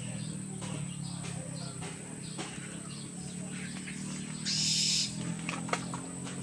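An owl giving a harsh hissing call about four and a half seconds in, lasting about half a second. Underneath are a steady low hum and scattered light ticks.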